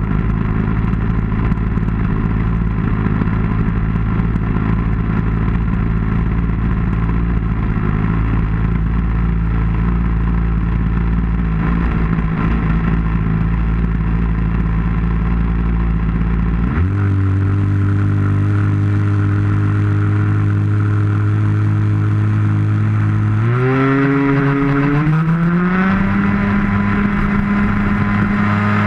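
Engine of an RC model airplane heard close up from the top of its wing, running steadily at low throttle. A little past halfway the pitch steps up, then climbs again in a smooth rise a few seconds later and holds at a higher steady note as the throttle is opened.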